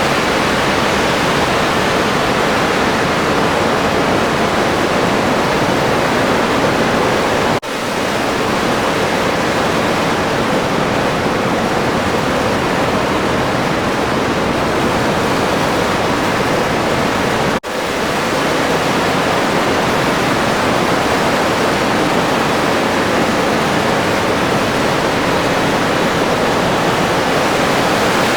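Steady rush of wind noise aboard an open-cockpit Air Cam plane in flight, with no distinct engine tone. It cuts out for an instant twice, about eight and eighteen seconds in.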